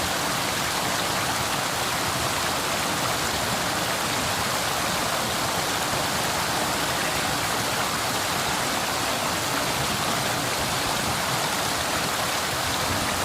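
River water flowing: a steady, even rush with no change.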